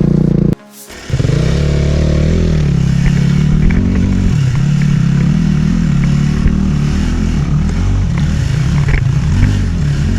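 Dirt bike engine running while riding a trail, its pitch rising and falling as the throttle opens and closes, with small clicks and clatter over the ground. The sound cuts out briefly about half a second in and comes back revving up.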